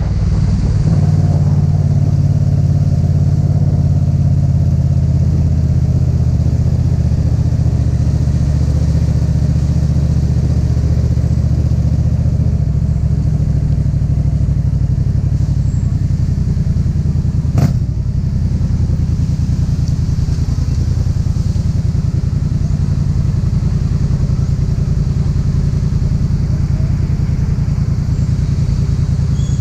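Yamaha MT-07's parallel-twin engine running steadily, with one sharp click a little past halfway through, after which it runs slightly quieter.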